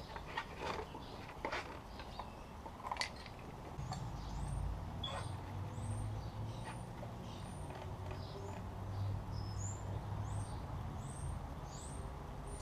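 A few sharp clicks and knocks, then a low rumble that starts about four seconds in, with a small bird repeating a short high chirp roughly once or twice a second over it.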